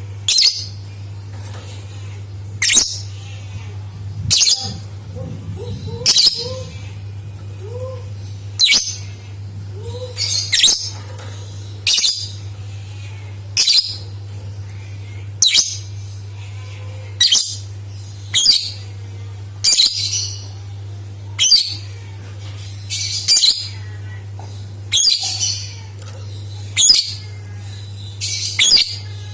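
Lovebird giving short, shrill chirping calls, one about every one and a half to two seconds, over a steady low hum.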